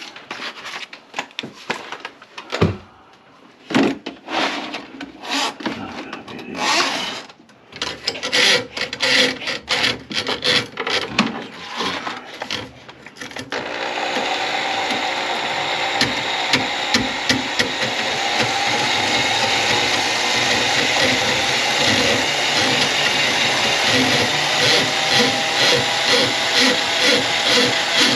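Knocking and rattling of equipment being handled, then about halfway through an electric drain-cleaning machine (drain snake) starts up suddenly and runs steadily, with a regular pulsing in its sound near the end.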